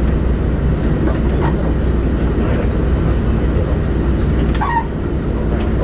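Diesel railcar running along the track, heard from on board: a steady low engine drone with a few scattered clicks of the wheels over the rails.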